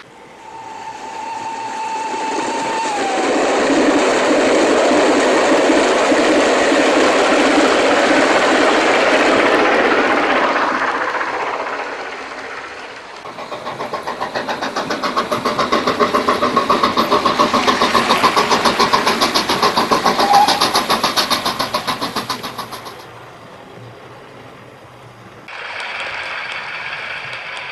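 Train sounds laid over a model railway layout. A rumble swells and fades, with a steady tone that drops in pitch about three seconds in. A second passage follows with a fast, even pulsing of about five beats a second, and a different engine sound cuts in abruptly near the end.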